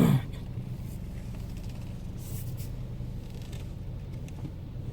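Car engine running at low revs, a steady low hum heard inside the cabin, with a faint brief rustle about two and a half seconds in.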